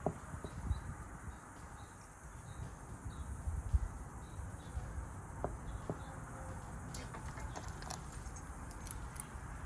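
Small clicks and taps of a pickup door lock cylinder and its parts being worked by hand, coming thicker in the last few seconds, over a low rumble. Faint short high chirps repeat through the first half.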